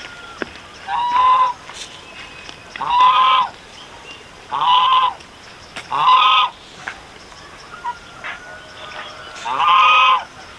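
A farm animal calling loudly five times, each call about half a second long, with gaps of one to three seconds between them.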